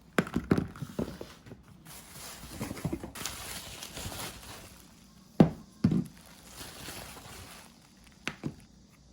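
A series of light knocks and thuds, like objects being handled and set down, with a stretch of rustling in the middle and two sharper knocks about halfway through.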